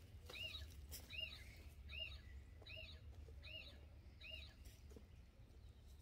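A small bird calling faintly: a short arched chirp repeated evenly about once every 0.8 seconds, six times, stopping about four and a half seconds in.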